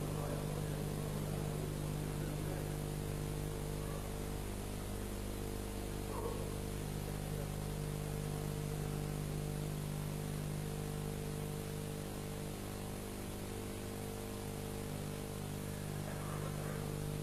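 A steady background hum made of several held low tones, unchanged in pitch and level throughout.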